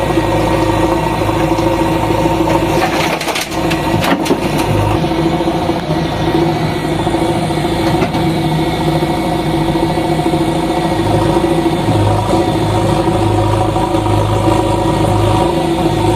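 JCB backhoe loader's diesel engine running steadily, with a few sharp cracks about three to four seconds in.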